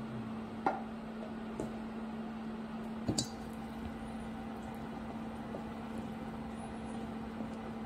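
Silicone spatula stirring flour into yeast water in a stainless steel bowl: soft squishing with a couple of clinks against the bowl, over a steady low hum.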